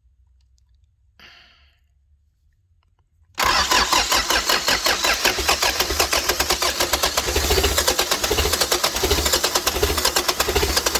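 Freshly rebuilt Toyota 13B-T four-cylinder turbodiesel on its first start: about three and a half seconds in it suddenly turns over loud and keeps going with a fast, even pulse.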